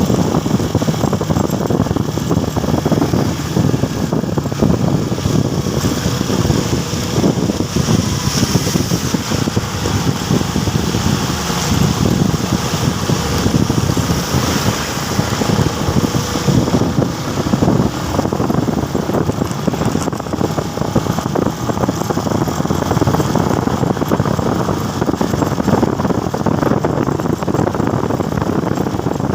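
Motorcycle on the move in traffic: steady engine and road noise, heard from the rider's camera.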